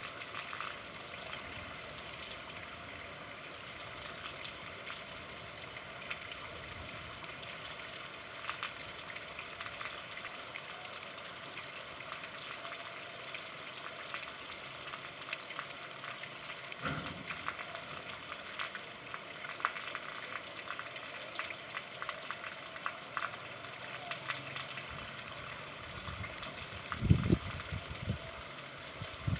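Steady rain: a dense hiss of fine drop patter. A few low thumps come near the end.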